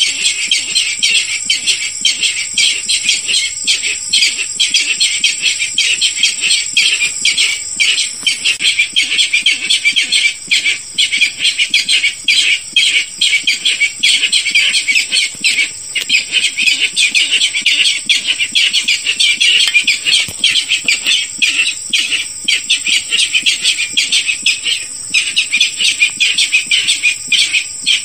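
Barred rail calls from a hunting lure recording: a loud, unbroken stream of rapid, harsh notes that pauses only briefly now and then. A steady thin high tone runs alongside.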